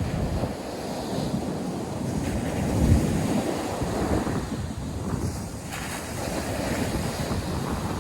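North Sea surf breaking and washing on a sandy beach, a steady rushing noise with wind buffeting the microphone, strongest in a low gust about three seconds in.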